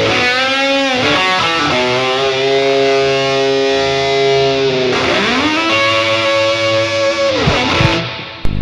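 Fender Custom Shop Limited Edition '55 Relic Esquire electric guitar played with distortion: long held notes that bend and slide in pitch, sliding down near the end.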